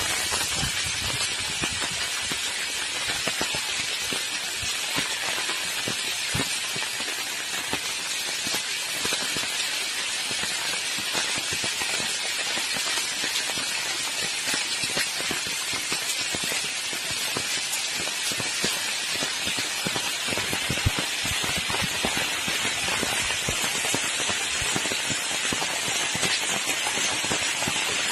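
Heavy rain falling steadily, a dense hiss of rain with many separate drops pattering close by.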